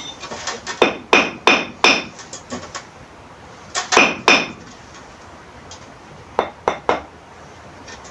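Bricks being tapped down into their mortar bed to bring them to level: sharp knocks with a slight ring, in three short runs of three or four taps.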